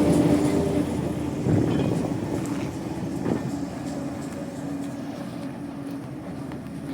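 Diesel train moving away, its engine hum fading steadily, with a few faint clicks from the wheels on the rails.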